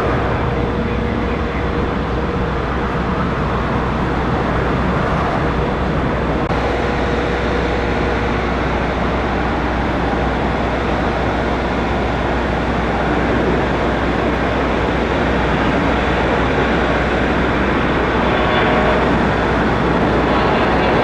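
Steady jet noise from the twin rear-mounted General Electric CF34 turbofans of Bombardier CRJ regional jets, growing a little louder in the second half.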